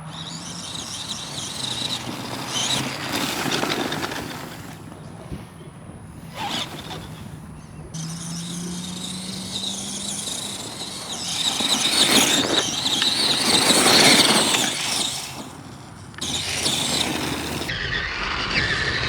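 An Arrma Gorgon RC monster truck's electric motor whining at speed, surging and easing off as it is driven, with tyre and drivetrain noise. The run is loudest about two thirds of the way through.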